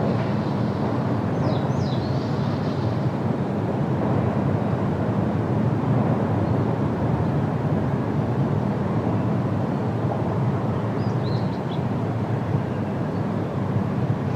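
Steady wind rushing through trees. A few faint bird chirps come through about two seconds in and again about eleven seconds in.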